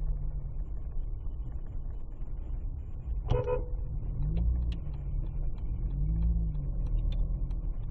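Steady low rumble of a car's engine and road noise heard through a dashcam, with one short car horn toot about three seconds in.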